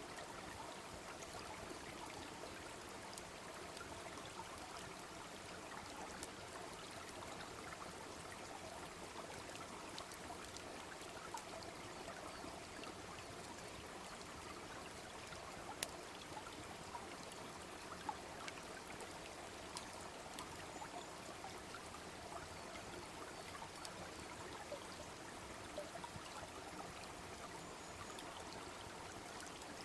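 Small brook babbling steadily, with scattered sharp crackles and pops from a wood campfire, one louder pop about halfway through.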